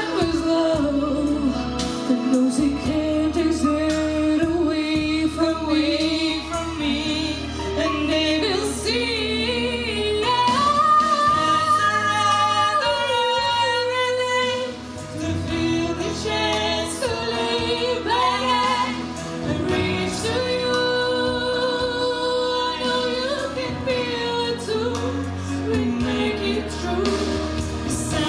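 Female vocal duet singing a ballad over a backing track, with long held notes and wide vibrato.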